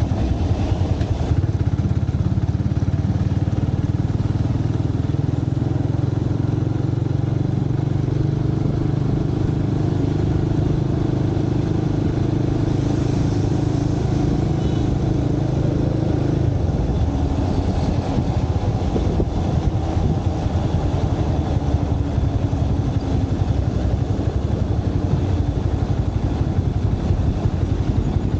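Motorcycle engine running steadily under way, heard from a camera mounted on the bike. About two-thirds of the way through, the steady engine note fades out, leaving rougher low-pitched noise.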